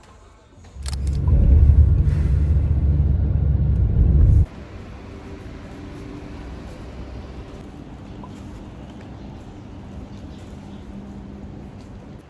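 A loud low rumble that cuts off suddenly about four and a half seconds in, followed by a quieter steady hum.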